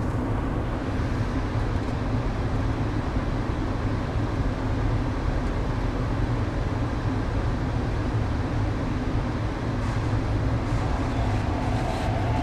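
Inside an MTR East Rail Line R-train electric multiple unit running through the cross-harbour tunnel: a steady rumble of wheels and running gear. Near the end a steady higher-pitched hum comes in over the rumble.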